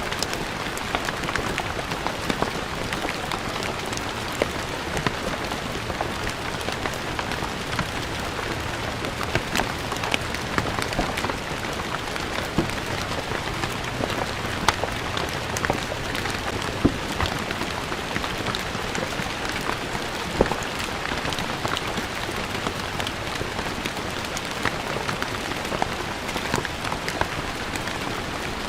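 Steady rain falling on stone paving, a constant hiss with many individual drops ticking and splashing close by.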